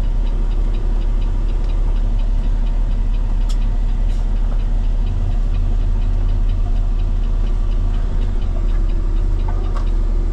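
Heavy truck diesel engine running steadily at low speed, with a rapid even ticking of several ticks a second over its rumble.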